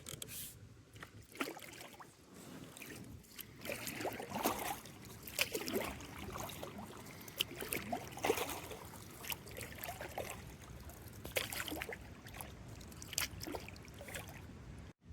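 Kayak paddle strokes dipping into the river, with splashing and water trickling off the blades, repeating irregularly every second or two.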